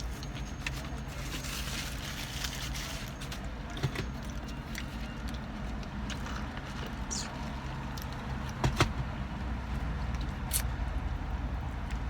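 A person chewing and eating a cheeseburger over a steady low car-like rumble, with scattered small clicks and one sharper knock about nine seconds in.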